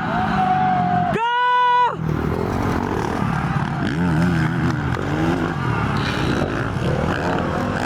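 Motocross motorcycles running amid crowd voices. About a second in comes a loud, short, held tone with a clean pitch that lasts under a second.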